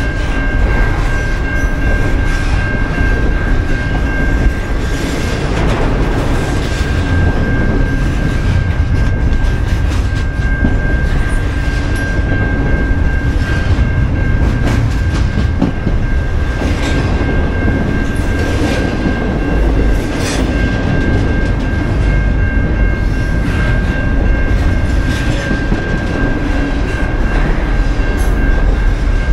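A train rolling past, its wheels clacking over the rail joints with a steady rumble and a steady high-pitched whine over it.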